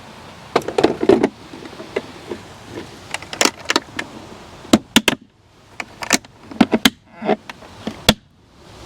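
Plastic parts of a cordless pool-cleaning robot being handled as its filter is cleaned out: a string of irregular clicks and knocks, several of them sharp.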